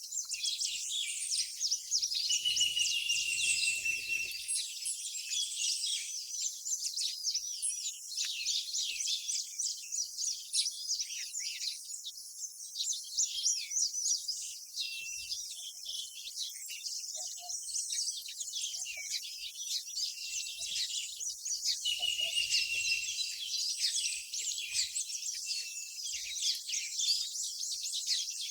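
Many small birds chirping and twittering continuously in a dense chorus of quick high calls, with a couple of short, held whistled notes standing out.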